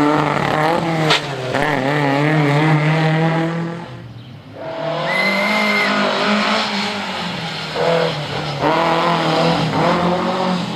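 Historic rally car engine revving hard, its pitch rising and falling through gear changes and throttle lifts. It drops away about four seconds in, then comes back and climbs again, with a brief high squeal about five seconds in.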